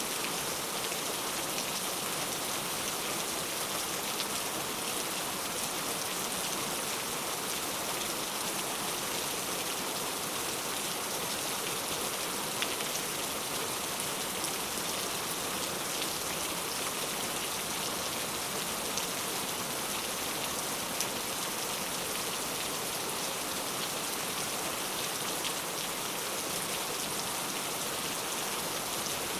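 Heavy rain falling steadily, a continuous hiss with scattered individual drops pattering on a surface.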